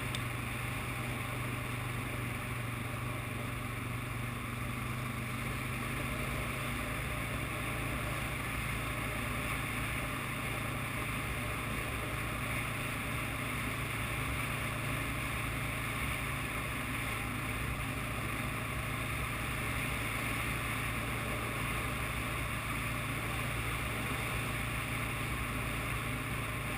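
ATV engine running at a steady pitch while riding along a trail, a constant drone with no change in speed.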